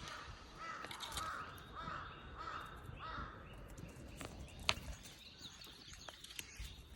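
A run of about six harsh, arching animal calls in quick succession over the first three seconds, then a single sharp click near the five-second mark.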